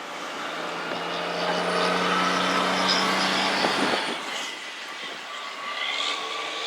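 A large vehicle's engine and road noise, building up to a steady hum, then dropping away about four seconds in.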